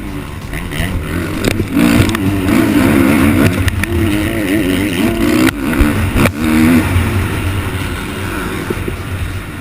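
Motocross motorcycle engines revving up and down as bikes race, the pitch wavering and loudest between about two and seven seconds in. There are a few sharp knocks along the way.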